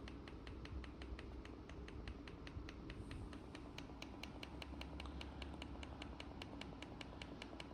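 Rapid, even clicking, about five clicks a second, as the heat setting of a Dyson HP09 fan heater is stepped up one degree at a time toward its 37-degree maximum. A low steady hum from the running fan lies underneath.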